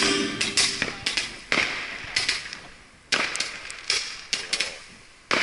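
Fireworks going off at the launch area: a rapid series of sharp pops and bangs, about a dozen, each fading away, with the strongest reports about a second and a half in, past halfway and at the very end.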